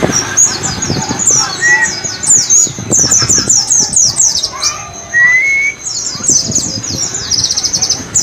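White-eyes (pleci) singing a busy, wild-style song: quick runs of high, falling chirps with hardly a pause, a short rising whistle about two-thirds through, and a fast trill of repeated notes near the end.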